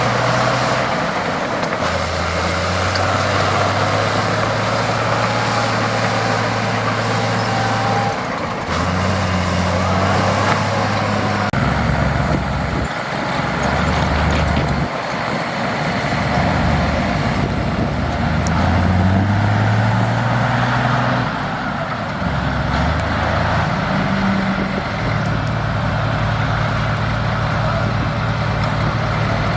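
Heavy diesel construction machinery running, its engine note stepping up and down several times, with one rising rev about two-thirds of the way through.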